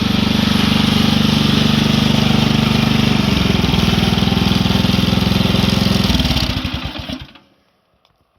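Engine of a new Ariens Deluxe 24 snowblower running steadily, then shut off about six seconds in and spinning down to a stop.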